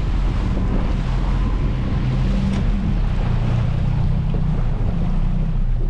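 Small fishing boat's engine running steadily under way, a low even drone, with wind on the microphone and water rushing past the hull.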